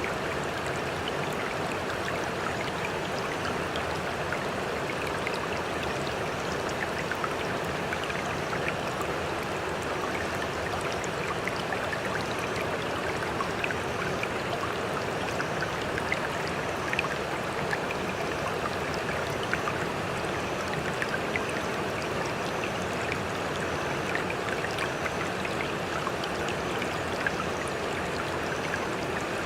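Sea water running steadily, an even rush with many small splashes and drips through it and no rise and fall of separate waves.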